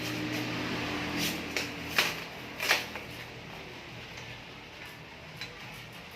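A few sharp clicks and knocks from bicycle repair work, the loudest two about two and three seconds in, with fainter ticks after, over a low steady hum that fades early on.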